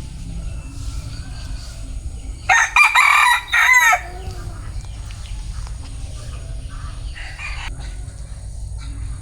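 A bantam (gà tre) rooster crowing once, a loud crow of about a second and a half starting near a third of the way in, over a steady low rumble.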